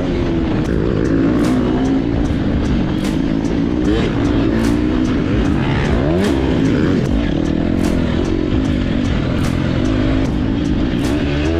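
Dirt bike engine revving up and down as it is ridden, the pitch climbing and dropping repeatedly through throttle and shifts. Short sharp clicks or knocks come through on top.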